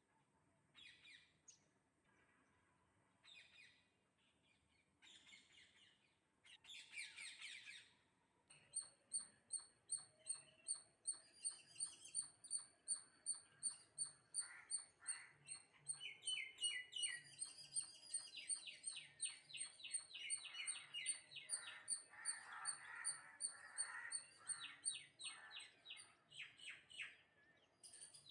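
High chirping calls: a few scattered calls at first, then from about eight seconds in a long run of sharp chirps repeated evenly, about two a second.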